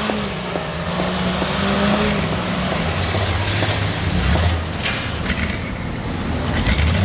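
Car engine running under way with road and wind noise. The engine pitch holds steady, drops lower about three seconds in as the car slows, then climbs again near the end as it accelerates.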